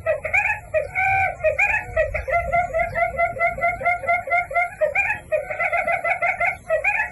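A bird calling in a rapid, continuous series of short pitched notes, about five or six a second, with a brief break about five seconds in.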